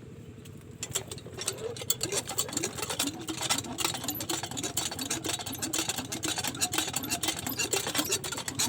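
Diesel engine driving a well water pump, running with a fast, dense clatter that sets in and grows louder about a second in over a steady low hum.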